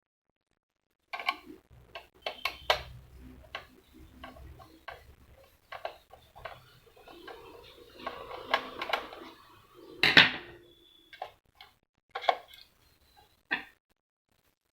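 Irregular clicks, taps and light rattling of small plastic and metal parts being handled while a receipt printer is taken apart, with a louder knock about ten seconds in.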